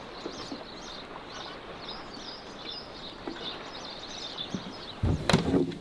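Small birds chirping repeatedly over a steady background hiss, with a few loud thumps near the end.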